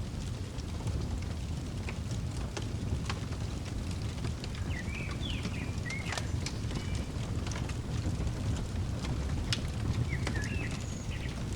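Fireplace crackling, with scattered pops over a steady low rumble. A small bird chirps in short phrases about five seconds in and again near the end.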